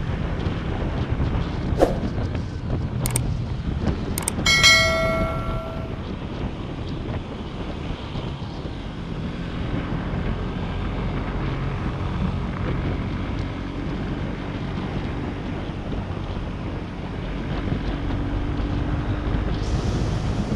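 Motorcycle engine running steadily under way, with wind rushing over the action-camera microphone. A few sharp clicks come in the first four seconds, and a short metallic ringing tone sounds about four and a half seconds in.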